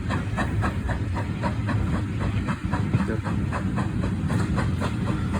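Heritage steam train running on the Bluebell Railway: a steady low rumble with a regular beat about four times a second.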